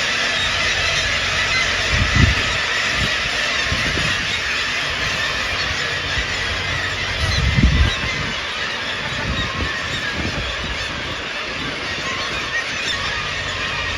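A large flock of seagulls calling continuously, many squealing cries overlapping into one dense clamour. Two brief low thumps, about two seconds in and just before the eight-second mark, the second the loudest moment.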